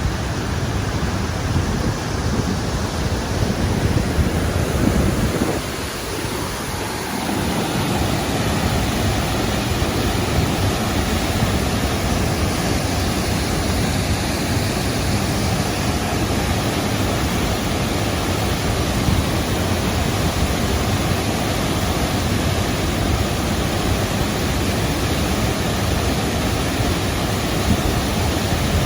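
Waterfall: a loud, steady rush of falling water, dipping briefly about six seconds in.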